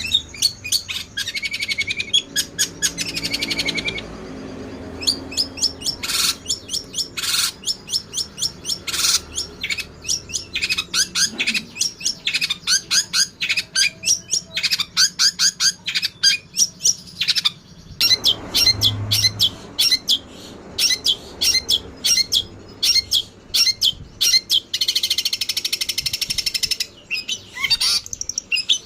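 Songbirds chirping: long rapid runs of short, sharp, high notes, with dense fast trills near the start and again near the end.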